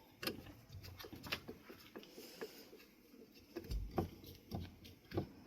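Irregular light knocks and clicks of ceiling fan motor parts being handled and fitted together by hand, the loudest knock about four seconds in.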